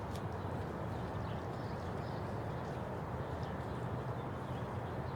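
Steady wind rumble on the microphone, with faint bird chirps scattered through it.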